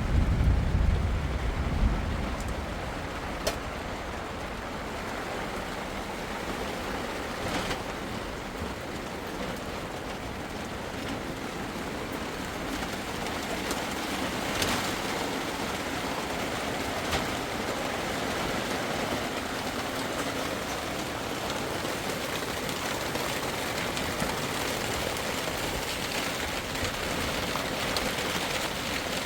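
Steady rain falling, with a low rumble in the first two seconds and a few sharp ticks.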